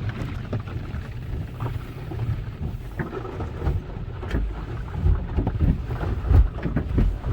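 Car wash cloth curtains, front-to-back and side-to-side, rubbing and slapping over the car, heard from inside the car: a low rumble with irregular thumps that gets louder about four seconds in.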